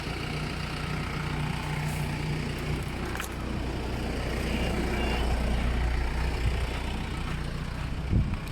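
Off-road vehicle's engine running steadily at low revs as it crawls over rocks, with a sharp click about three seconds in and a couple of knocks near the end.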